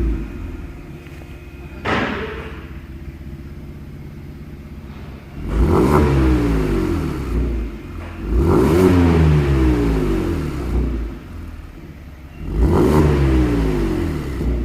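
Kia Stinger 3.3 GT's twin-turbo V6 exhaust, through an aftermarket Pico variable-valve system, revved three times. Each rev rises quickly and falls back to idle. There is one sharp crack about two seconds in.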